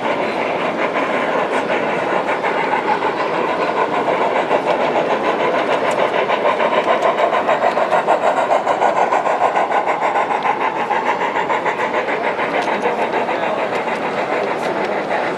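A model train running on a show layout, its wheels clicking over the track in a steady rhythm, with a quicker pulsing in the middle.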